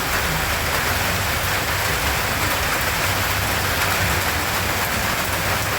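Steady rainfall, an even hiss with a low rumble underneath.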